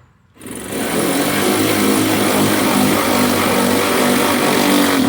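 A power tool runs steadily for about five seconds with a loud hiss and a low hum, starting and stopping abruptly.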